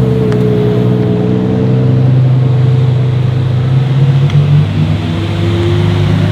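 Ferrari supercar engines running at low revs as the cars roll slowly past, a steady low engine note with a brief swell about four seconds in.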